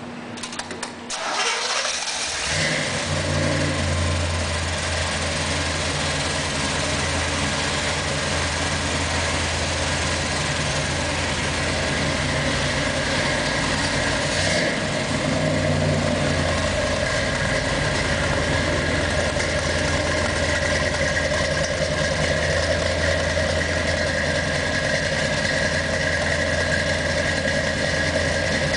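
1963 Corvette's 327 small-block V8 cranked on the starter for about a second, catching and revving briefly, then settling into a steady idle at its first start. The idle has a slight lope from the cam.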